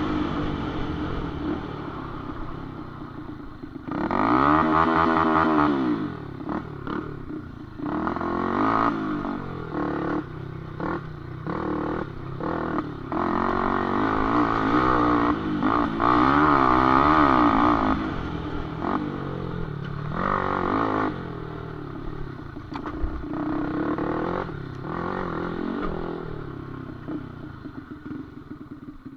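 Small underbone motorcycle engines revving on and off the throttle, pitch climbing and dropping again and again. A loud rise and fall about four to six seconds in and a longer loud run in the middle, the sound easing off toward the end.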